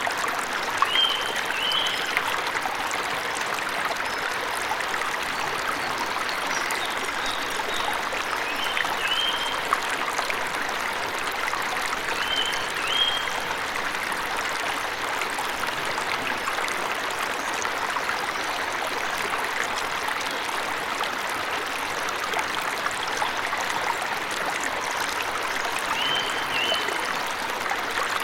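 Steady rush of water from a forest waterfall, with a bird giving short high two-note chirps a few times.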